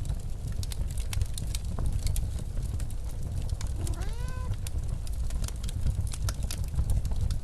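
Steady low blizzard wind rumble with a wood fire crackling and popping throughout. About four seconds in, a cat gives a single short meow that rises and then falls.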